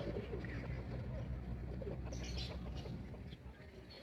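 Backyard chickens clucking faintly, with a few short high calls about two seconds in, over a steady low rumble.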